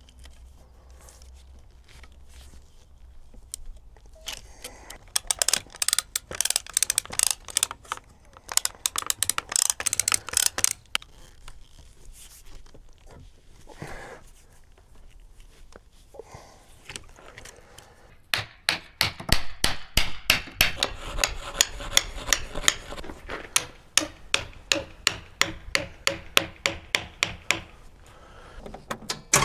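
Quick scraping or rubbing strokes on wood, several a second, in two bouts, the second one longer.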